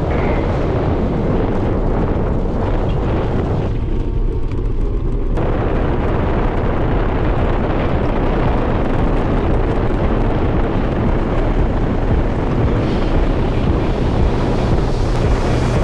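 Heavy wind noise buffeting the microphone while moving at speed: a loud, steady rush with a deep low end.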